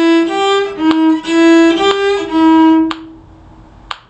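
A bowed string instrument playing a short phrase of single notes moving around E, G and D sharp, the last note ending about three seconds in. A sharp click comes near the end.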